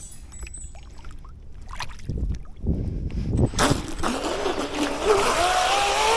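Electric RC outrigger boat's brushless motor whining as the boat runs across the water, with a steady hiss of water and spray. The hiss comes in a little past halfway, and the whine rises in pitch near the end as the boat speeds up.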